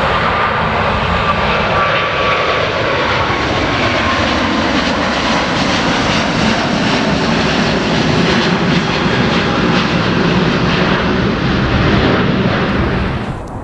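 Airbus A350-1000's Rolls-Royce Trent XWB engines at departure thrust, a loud, steady jet noise with a faint whine gliding down in the first few seconds, cut off abruptly near the end.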